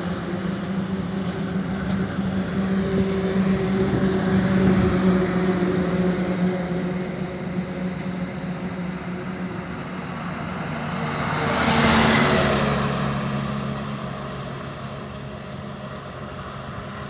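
Highway traffic: a heavy truck's engine runs steadily, and about twelve seconds in a vehicle passes close by. Its noise swells and then fades, and the engine note drops lower as it goes past.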